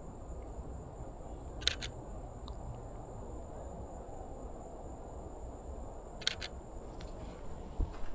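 Canon EOS RP camera shutter firing twice, about four and a half seconds apart, each shot a quick double click.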